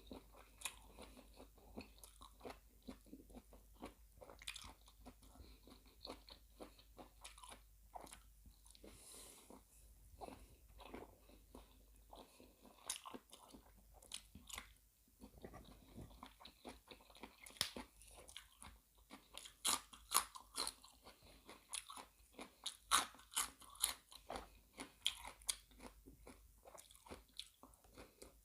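Close-up chewing and crunching of seafood larb and fresh raw vegetables: many small crunches and mouth clicks, louder and more frequent in the second half.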